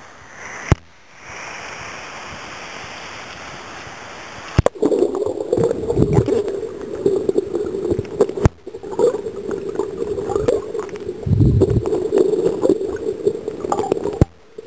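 Rushing, gurgling water in a string of short clips joined by abrupt cuts: a steadier hiss for the first few seconds, then louder, more uneven churning water from about a third of the way in.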